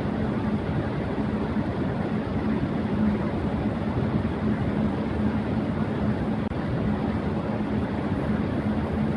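Electric fan running at high speed: a steady rush of air with a low, even hum underneath.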